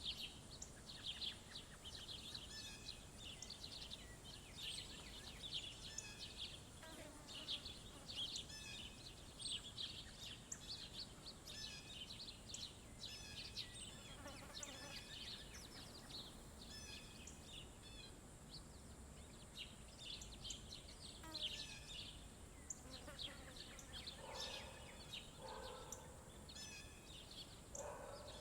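Small songbirds chirping and twittering in quick, overlapping short calls, with a few lower calls near the end.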